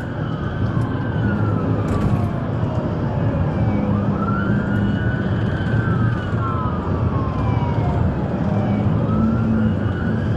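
Police car siren wailing, its pitch rising and falling slowly about every five to six seconds, over steady road and engine noise from vehicles driving at speed.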